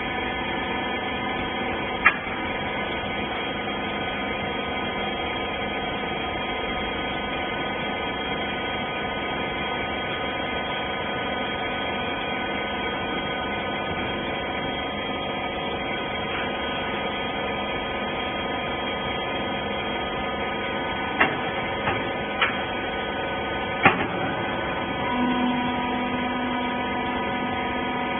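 Hydraulic rag baler running with a steady hum. A sharp click comes about two seconds in, and a few clicks or knocks come close together near the end. A new steady lower tone joins near the end.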